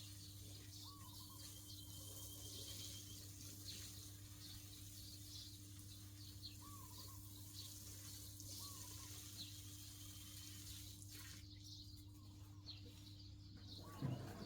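Near silence: a faint steady low hum with a few faint, short high chirps scattered through it.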